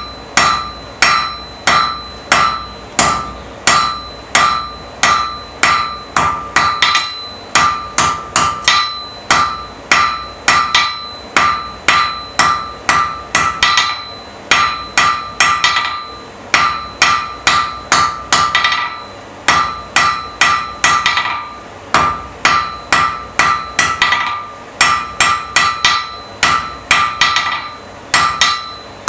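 Blacksmith's hammer striking iron on an anvil while forging a nail, a steady rhythm of about two blows a second with some lighter taps between. Each blow leaves the anvil ringing briefly.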